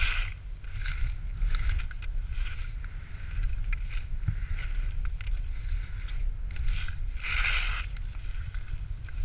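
Skis hissing and scraping through snow in a run of turns, each turn a swish of snow noise, the longest about seven seconds in, over a steady rumble of wind on the microphone.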